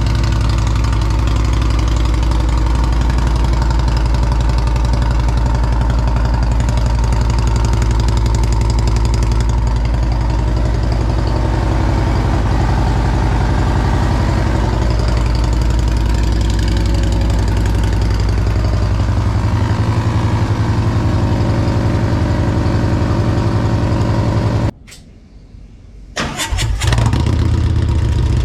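Harley-Davidson Road Glide V-twin running through Reinhart Slimline dual exhaust with 4.5 DBX mufflers, mostly at a steady idle with a deep, loud exhaust note. Near the end the sound cuts out suddenly for about a second and a half, then comes back.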